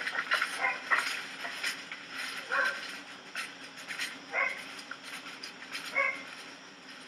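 A dog barking a handful of times, one bark every second or two, with a sharp click about a second in.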